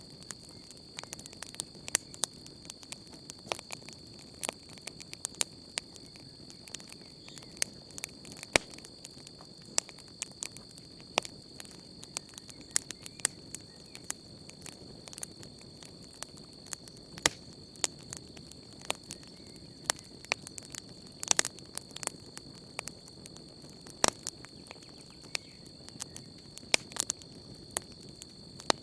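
Wood campfire crackling, with irregular sharp pops and snaps, some much louder than others, over a low steady rush of burning. A steady high chirring of insects runs underneath.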